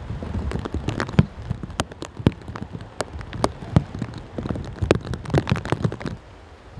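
Heavy typhoon rain, with drops landing close by as irregular sharp taps over a low rumble of wind. The taps die away about six seconds in.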